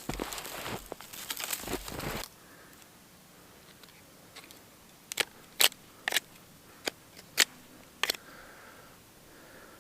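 Crunching in packed snow for about two seconds, then six sharp snaps spread over about three seconds: small dry twigs being broken off for gauge sticks.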